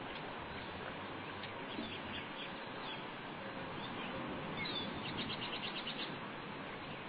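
Steady outdoor background hiss with faint scattered bird chirps, and a quick run of about eight chirping notes around five seconds in.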